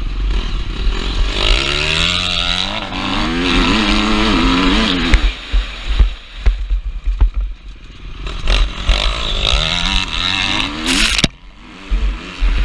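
KTM 350 SX-F's single-cylinder four-stroke engine revving hard, its pitch climbing for a few seconds before the rider backs off the throttle about five seconds in, then winding up again and cutting off sharply near the end. Wind buffets the helmet-mounted microphone throughout.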